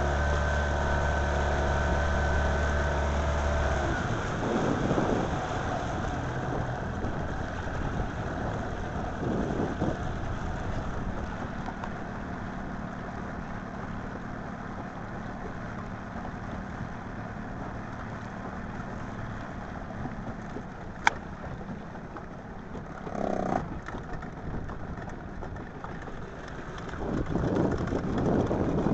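A motor hums steadily and stops about four seconds in. A steady rushing noise follows, with one sharp click past the middle and a swell of louder noise near the end.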